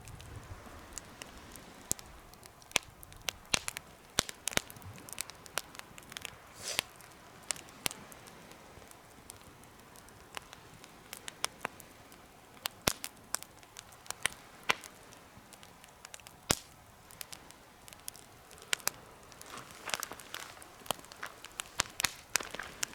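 Wood fire crackling in a homemade fire pit: irregular sharp pops and snaps over a soft steady hiss, with small clusters of pops around seven seconds in and near the end.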